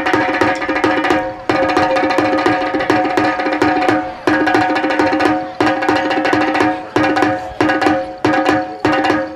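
Parai frame drum beaten with two sticks in a fast, dense rhythm that plays a song's beat, its head ringing at a steady pitch. Brief breaks split the playing into phrases.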